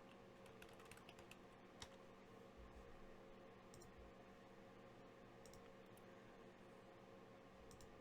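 Near silence with faint, scattered clicks of typing on a computer keyboard, bunched in the first couple of seconds and then a few more later.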